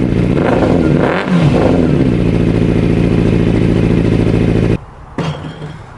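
Triumph Daytona 600's inline-four engine, fitted with an aftermarket exhaust, running: a throttle blip rises and falls about a second in, then it idles steadily until it cuts off suddenly near the end, followed by a single knock.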